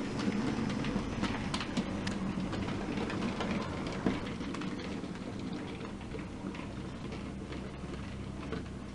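A train running along the track, its wheels clicking irregularly over the rail joints over a steady low hum, slowly fading as it moves away.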